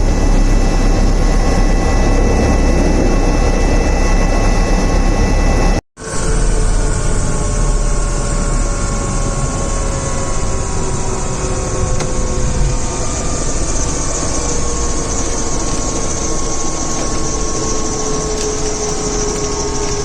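Airbus H145 twin-turbine helicopter running: a loud, steady rush of turbine and rotor noise with several high whining tones. It breaks off for an instant about six seconds in, then resumes with the whines slowly falling in pitch.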